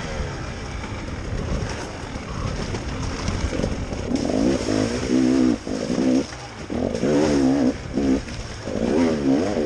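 KTM enduro motorcycle engine heard from an onboard camera, revving up and down in repeated bursts as the throttle is worked, with short drops off the throttle between them.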